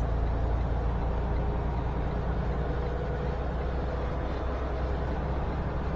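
Semi-truck cruising on the highway, heard from inside the cab: a steady deep rumble of engine and road noise with a faint steady hum above it.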